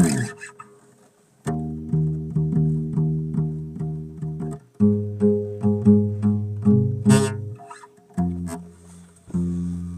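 Bass played live and solo, plucked notes in a quick repeating riff of about four notes a second. It opens with one sharp struck note and a short pause, and the riff breaks off briefly twice.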